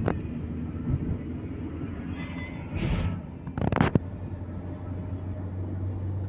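Vehicle driving, heard from inside the cabin: a steady low engine and road rumble, with two brief louder whooshes a little past the middle.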